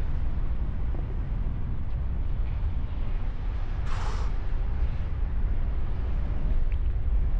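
Wind rushing and buffeting over the camera microphone during a paraglider flight, a steady low rumble, with a brief hiss about four seconds in.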